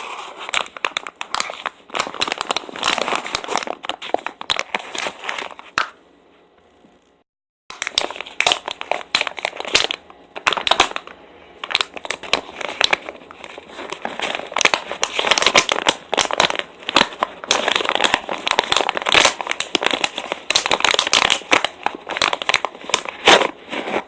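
Close-miked chewing of soft, sticky dried mango: dense wet, crackly mouth sounds. They stop briefly about six seconds in, then start again.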